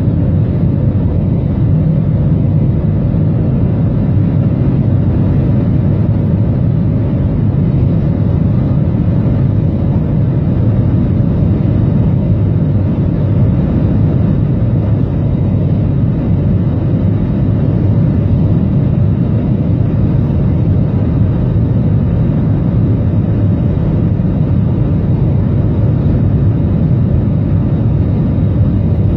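Aircraft cabin noise after takeoff: a steady, loud rumble of engines and rushing air heard from inside the cabin.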